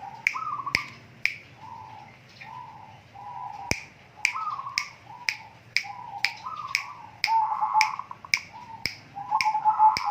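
A bird giving short, harsh repeated calls, about two a second, rather than a full song, mixed with sharp clicks at a similar pace.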